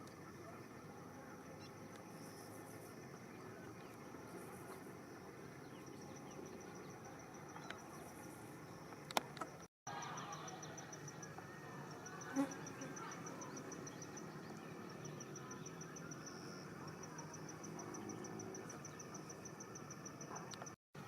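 Insects chirping in fast, evenly spaced high-pitched trills over a low background hiss, with a couple of short sharp clicks.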